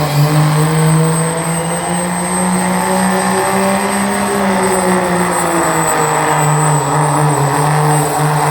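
Dodge Ram pulling truck's engine held at high revs under heavy load while dragging the pulling sled, its pitch wavering slightly through the pull.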